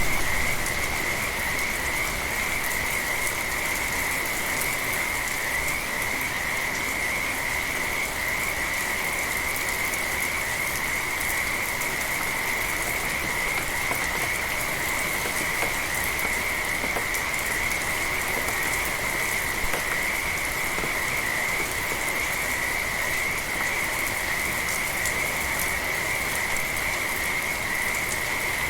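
A chorus of frogs calling in one continuous high trill over steady light rain, with scattered raindrop ticks.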